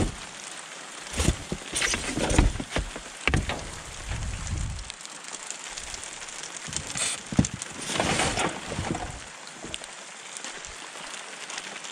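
Steady rain pattering, heard through a water-logged GoPro microphone, with several sharp knocks and clatters of scrap being handled, the busiest in the first three seconds and again about seven to nine seconds in.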